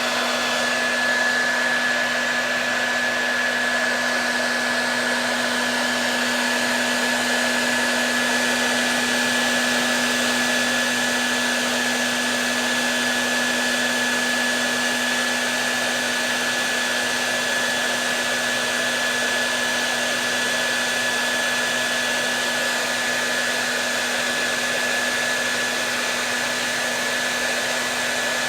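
Hair dryer running steadily: a constant rush of air with a low hum and a thin high tone held throughout.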